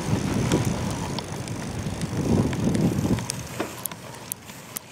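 Riding noise from a camera taped to a moving bicycle: rough wind buffeting and road rumble that drops away about three seconds in, leaving a few light clicks.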